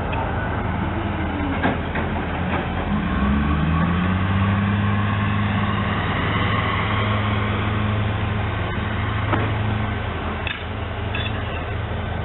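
Diesel engine of an EMD SD40-2W locomotive, a turbocharged 16-cylinder 645, throttling up a few seconds in, rising in pitch, then running steadily under load before easing back near the end. A few sharp clanks are heard along the way.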